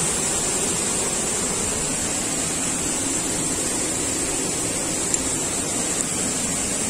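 Waterfall: a steady, even rush of falling water, with two faint ticks about five and six seconds in.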